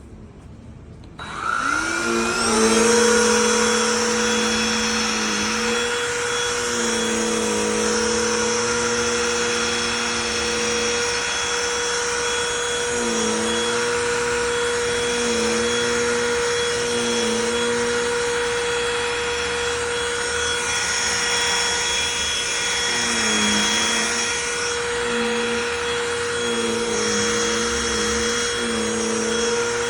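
Cordless handheld vacuum (BLACK+DECKER Dustbuster) switched on about a second in, its motor whining up to speed and then running steadily. The pitch of the motor dips briefly several times while it vacuums.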